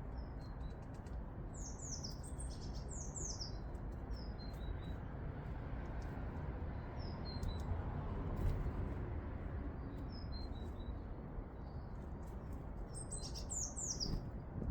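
Small garden songbirds calling over a steady low rumble of outdoor background. A quick cluster of short, high, downward-slurred notes comes near the start and another near the end, with scattered soft chips and faint clicks in between.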